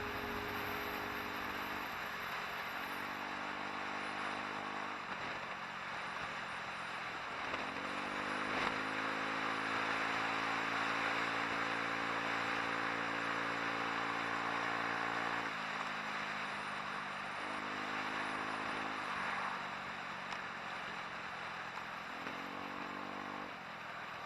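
Vespa scooter engine under way, its pitch rising and falling several times as the throttle is opened and eased, over a steady rush of wind and road noise.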